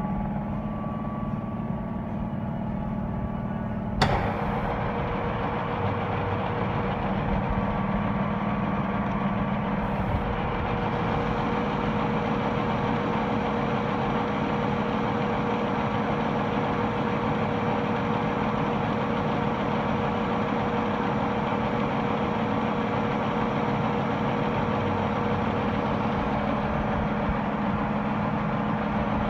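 Colchester metal lathe running with a steady mechanical hum. A single sharp clunk comes about four seconds in, after which a higher steady tone joins the hum.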